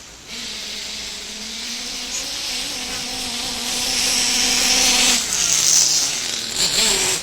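Small nitro glow engine of a radio-controlled truck buzzing at a high pitch. It grows louder over the first five seconds, then drops back and wavers near the end.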